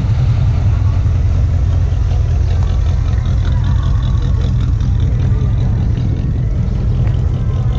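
A vehicle engine running with a deep, steady rumble.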